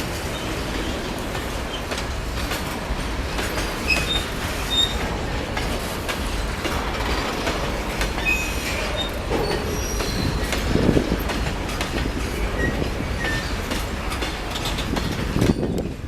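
Electric multiple unit (EMU) local train running on the rails: a steady rumble and clatter of the wheels, with brief high squeaks scattered through.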